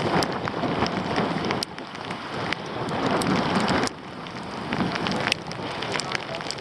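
Rain and wind noise on a small action camera's microphone, with many sharp ticks of raindrops striking it. The level shifts abruptly a few times.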